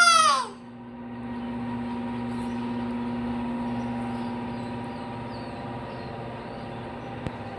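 A child's high squeal, rising then falling in pitch, ends about half a second in. After it comes a steady mechanical hum with a few fixed tones.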